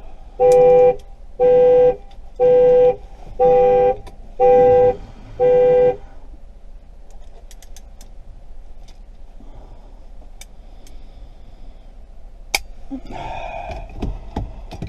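Chevrolet Captiva's car horn honking about once a second, six times, then stopping: the anti-theft alarm has been set off and is sounding through the horn.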